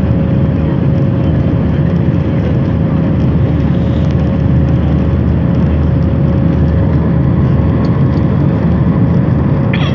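Airliner cabin noise during takeoff: jet engines and rushing air give a steady, even low rumble with a faint steady hum tone over it.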